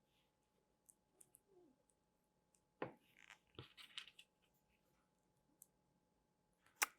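Near silence, broken by a few faint, sharp clicks of plastic LEGO bricks being handled and snapped together, about three seconds in, twice a second later, and once just before the end.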